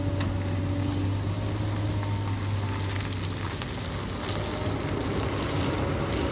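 Hyundai excavator's diesel engine running steadily, with a hydraulic whine that comes and goes and a few light knocks.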